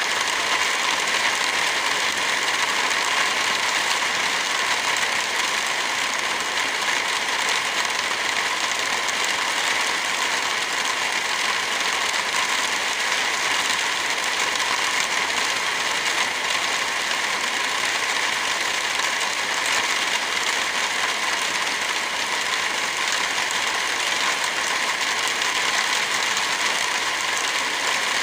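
Steady rain falling, mixed with the crackle of a wood fire, at an even level.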